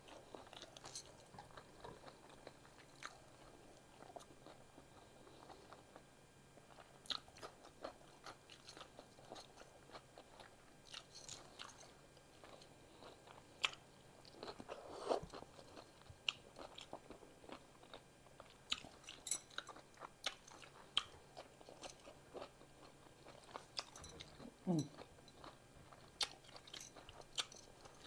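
Close-up mouth sounds of eating a cheddar hot link sandwich: quiet chewing broken by scattered wet clicks and smacks of lips and fingers.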